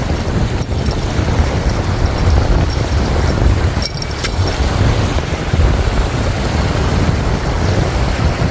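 Strong wind buffeting the microphone: a steady, gusty low rumble. A couple of faint clicks about four seconds in.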